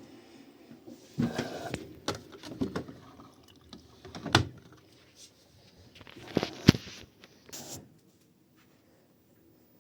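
A run of knocks, clatters and rustles, as of things being handled, with a sharp knock just before seven seconds in, then quiet.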